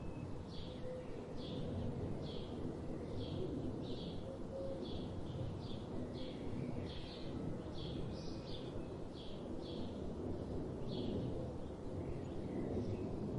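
A bird calling: a long, regular series of short, high chirps, a little more than one a second, over a steady low background noise.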